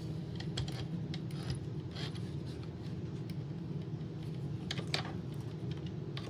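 Light clicks and rattles of a Roomba robot vacuum's plastic parts being handled during disassembly, scattered irregularly with a sharper click about five seconds in, over a steady low hum.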